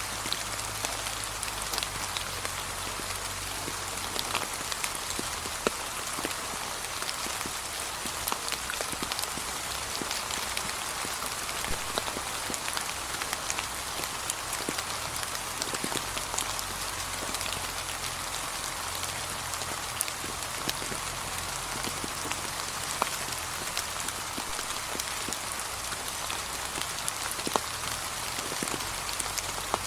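Steady light rain falling, a even hiss with scattered close drop hits.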